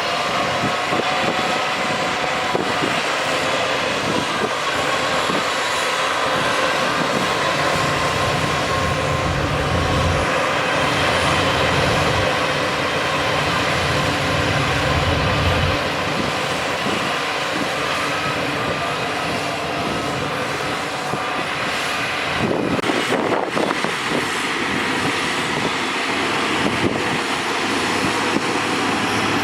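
Heavy diesel earthmoving machinery running steadily, with a deeper low rumble for several seconds in the middle as an engine works harder.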